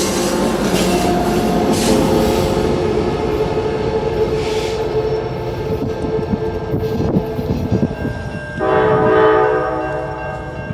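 Train rolling past with steady wheel and engine noise, then a short, loud blast of its air horn near the end.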